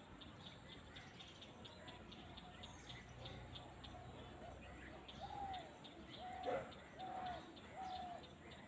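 Birds calling in open countryside: a series of four short, arched calls about a second apart in the second half, with one sharp falling call, the loudest sound, among them. A fast, high ticking runs underneath.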